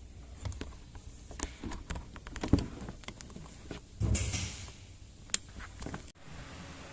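Scattered light clicks and knocks, typical of hand tools and metal engine parts being handled during a repair, with a short hiss about four seconds in.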